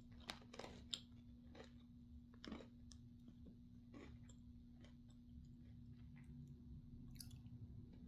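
Faint chewing and crunching of a hot-sauce-seasoned pretzel snack: scattered soft crunches and clicks at an uneven pace, over a low steady hum.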